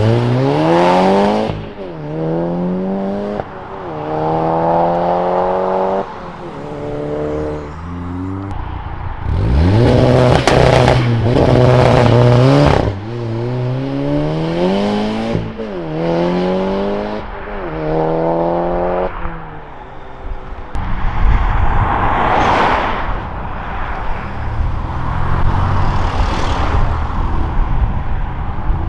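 Modified cars accelerating hard away one after another, each engine note rising steeply, breaking off at a gear change and climbing again. Over roughly the last third the engines give way to the noise of cars rushing past.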